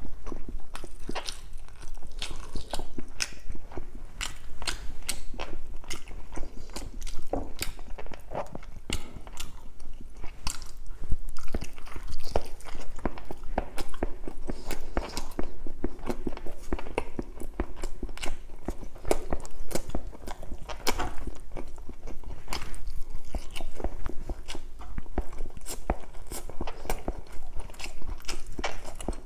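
Mouth noises of a person chewing roast chicken and rice: a continuous run of wet smacks and clicks with no pauses.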